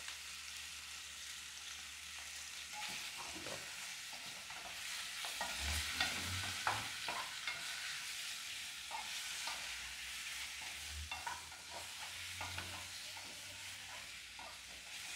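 Boiled potatoes frying in olive oil in a metal pressure-cooker pot, a steady sizzle, while a wooden spoon stirs them and knocks against the pot from about two seconds in, busiest around the middle.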